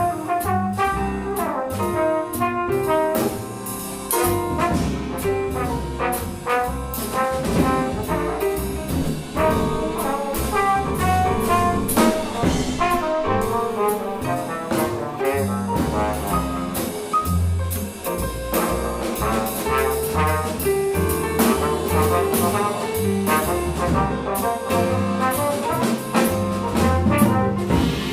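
Jazz quintet playing live: a brass horn carries a busy melodic line over piano, bass and drums, with cymbals ringing throughout.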